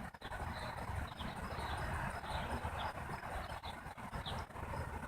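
Outdoor ambience: wind buffeting the microphone with an uneven low rumble, and small birds chirping in short, repeated high notes in the background.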